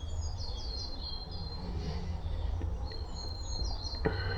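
Small songbirds chirping, a busy run of short, high, falling notes, over a steady low rumble. A single knock sounds near the end.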